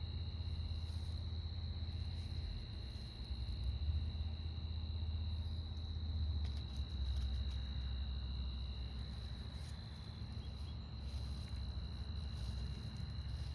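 Insects trilling in a continuous high-pitched drone, with a second, lower trill starting and stopping several times, over a low steady rumble.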